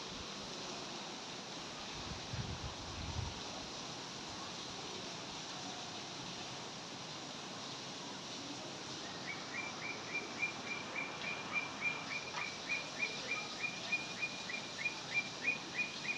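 Rain falling steadily. About nine seconds in, a bird starts calling a short repeated chirp, about three times a second.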